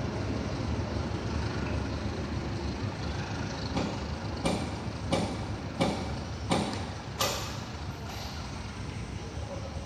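Train pulling away, a steady low rumble with a run of about six sharp metallic clanks, evenly spaced a little under a second apart, in the middle.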